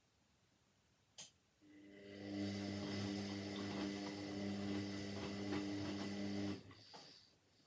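Indesit 71252 washing machine: a click, then a motor hum builds up about half a second later, runs steadily for about five seconds, and cuts off abruptly.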